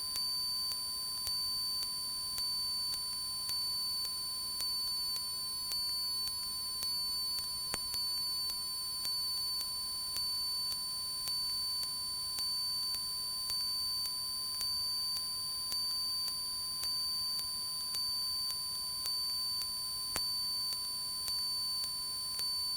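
Steady electronic tone, a constant high pitch with higher overtones, with faint regular ticks about once a second; no engine sound comes through.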